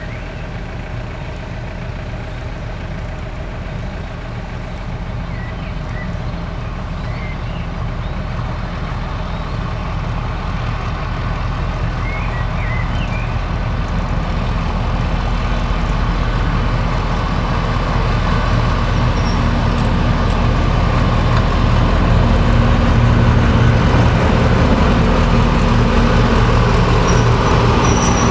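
Heavy diesel locomotive engine running with a steady low throb, growing steadily louder.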